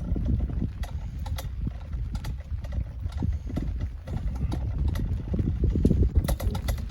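Irregular small clicks and knocks of fishing rods and tackle being handled while switching to a heavier rod, over a steady low rumble. The clicks come thicker near the end.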